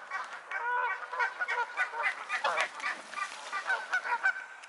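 Many waterfowl calling at once: short, repeated calls overlapping one another. A brief noise stands out about two and a half seconds in.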